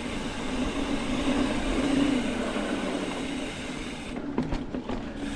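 Mountain bike coasting down a dirt trail: the rear hub's freewheel buzzes steadily over tyre and wind noise, with a few quick clatters from the bike over bumps about four seconds in.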